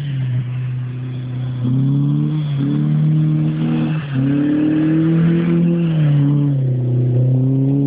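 Audi 80 Competition's engine through a homemade exhaust, running under load as the car is driven, its note stepping up in pitch twice and dropping back once.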